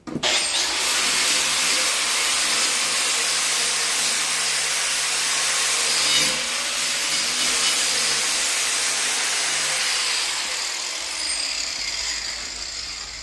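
Angle grinder with a flap disc grinding along the steel edge of a large blade to sharpen it: a steady, loud grinding that starts suddenly, then fades with a falling whine near the end.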